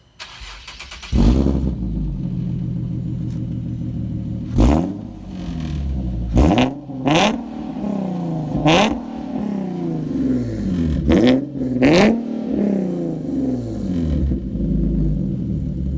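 A Nissan/Infiniti VQ-series V6 with an aftermarket exhaust cranked on the starter, catching about a second in with a loud flare, settling to idle, then blipped about six times, each rev rising sharply and falling back to idle. Its sound is likened to a jet.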